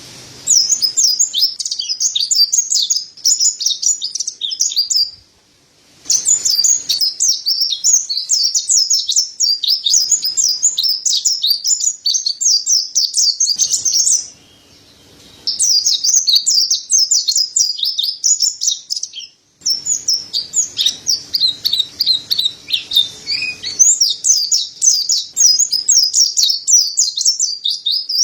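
Mountain white-eye (pleci dada putih, Montanus) singing a rapid, high twittering song in long bouts of several seconds, with short pauses about five, fourteen and nineteen seconds in.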